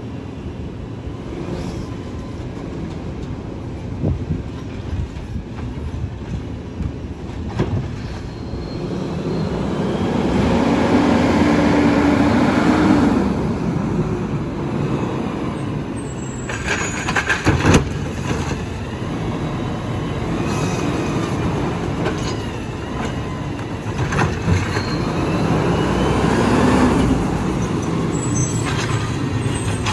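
McNeilus AutoReach automated side-loading garbage truck at work: the engine and hydraulics run steadily, getting louder for a few seconds with a steady hum, then sharp metal clanks and squeals, twice.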